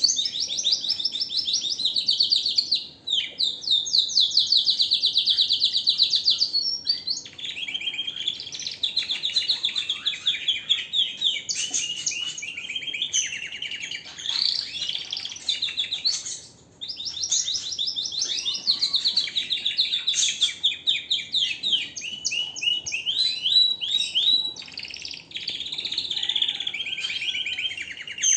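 Domestic canary singing a long, loud song of rapid trills and rolling chirp phrases, broken by short pauses about three seconds in and again past the middle.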